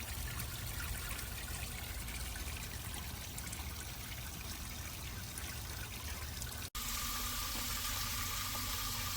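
Water from a tiered outdoor garden fountain trickling and splashing steadily. About two-thirds of the way through, the sound cuts out for an instant and comes back brighter and hissier.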